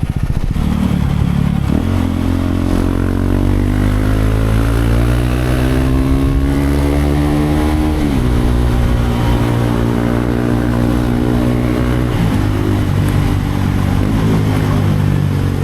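Motorcycle engine pulling away: the revs climb steadily for several seconds, drop sharply at a gear change about eight seconds in, and drop again about twelve seconds in before it runs on steadily.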